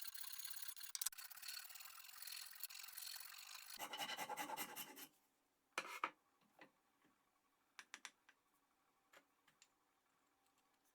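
Scratchy rubbing of hand abrasive work on the metal of an antique wrench, which stops abruptly about five seconds in. A few light clicks and taps follow.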